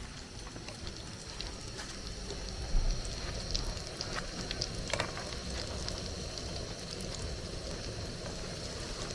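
Food frying in hot oil over a wood fire: a steady sizzle with scattered small pops and crackles, and one dull bump about three seconds in.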